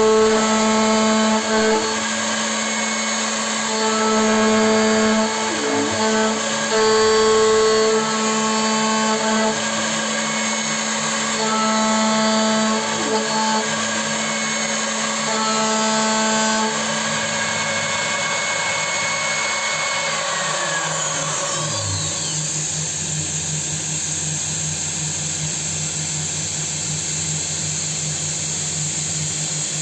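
CNC milling machine running: a steady machine whine, joined by a chord of higher whining tones that comes and goes five times over the first half. About two-thirds of the way through, the whine glides down in pitch and settles into a lower, buzzier hum.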